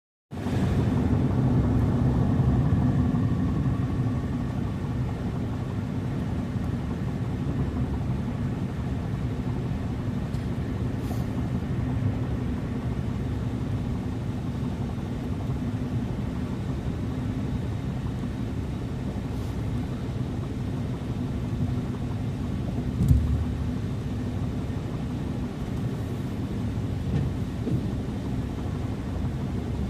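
A car driving: a steady low rumble of road and engine noise, with one short thump about three quarters of the way through.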